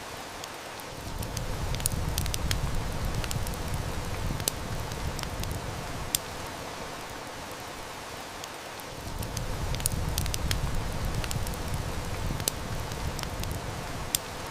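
Heavy rain hissing steadily with a wood fire crackling in scattered sharp snaps. Two low rumbles of distant thunder swell and fade, the first starting about a second in and the second about nine seconds in, each lasting about five seconds.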